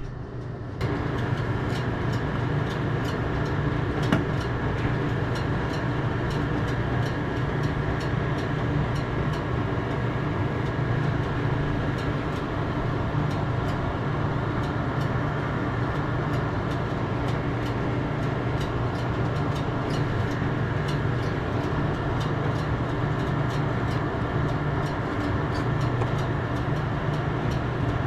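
A steady mechanical running noise starts about a second in and holds even, with a low hum and many small clicks scattered through it.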